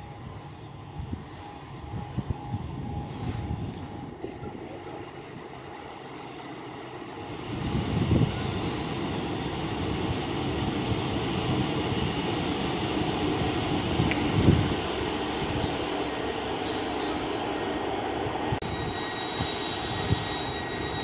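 A Class 150 Sprinter diesel multiple unit running into the platform, at first distant, then much louder from about seven seconds in as it draws alongside. Its engines and wheels are heard on the rails. A thin high brake squeal comes in near the end as it slows to a stop.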